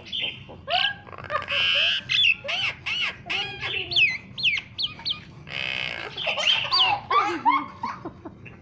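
Cage birds calling: a busy run of varied whistles and chirps that slide up and down in pitch, broken by two longer harsh, raspy screeches, one about a second and a half in and one near the middle.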